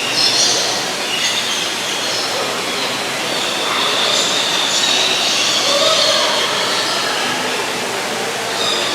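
A flock of birds, parrots among them, calling at once: a dense, continuous chatter of shrill high-pitched screeches.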